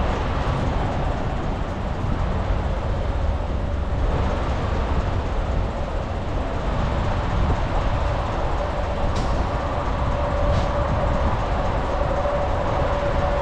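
Steady low rumble of a semi truck's diesel engine idling at a fuel island. A steady hum comes in about halfway, and there are two faint clicks near the end.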